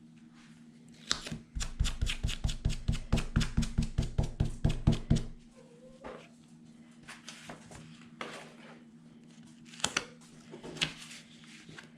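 A fast, even run of sharp taps, about five or six a second, lasting some four seconds, then a few scattered clicks, from paper-craft materials being worked by hand on a table.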